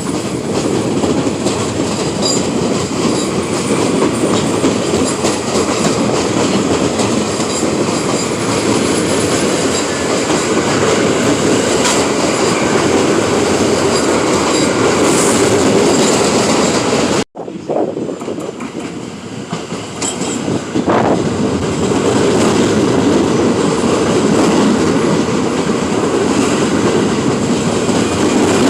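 R46 subway train running on the rails: a continuous loud rumble and rattle with a faint high wheel squeal. The sound cuts out abruptly about 17 seconds in, then resumes.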